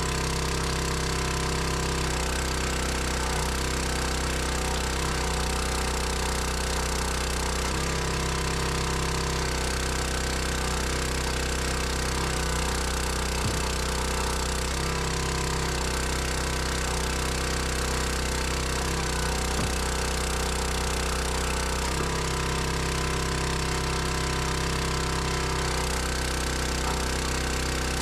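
An engine running steadily, its note shifting every few seconds as the load on it changes.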